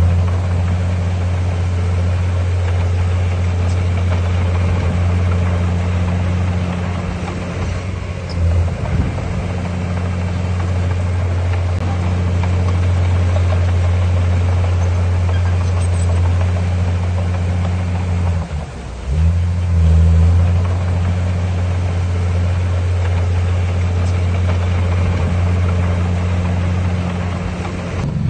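Heavy earthmoving machine's diesel engine running steadily with a deep hum, its note faltering briefly about eight seconds in and dropping near eighteen seconds before picking back up.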